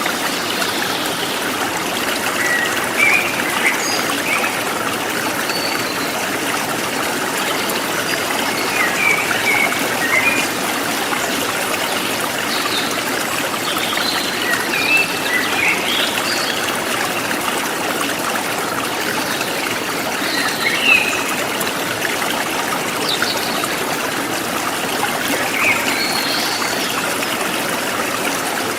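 Stream flowing steadily over rocks, with songbirds chirping in short scattered calls over the top.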